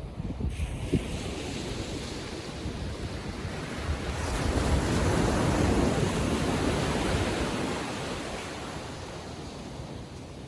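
Ocean waves on a calm sea, one wave breaking and washing up the shore: the wash swells about four seconds in and fades away over several seconds. Wind rumbles and gusts on the microphone.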